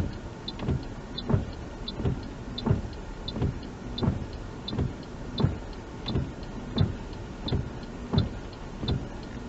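A car's turn indicator ticking steadily inside the cabin, about one and a half ticks a second, over the car's road and engine noise.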